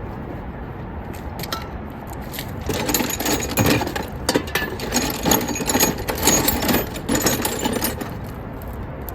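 Quick, irregular metal clicking and rattling as tools and parts are handled in a car's engine bay. It starts about three seconds in and goes on for some five seconds over a steady low background rumble.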